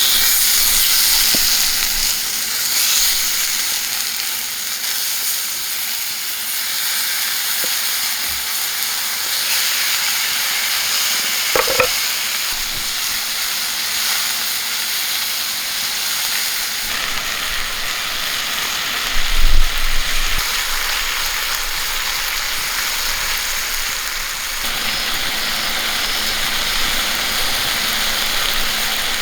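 Steak sizzling steadily as it cooks over a campfire. A brief low bump comes about twenty seconds in.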